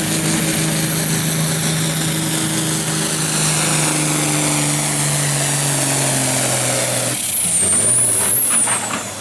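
Farm pulling tractor running at full throttle against the sled, its engine note sagging slowly as it bogs down. About seven seconds in the throttle is cut and a high whistle winds down in pitch as the engine drops away.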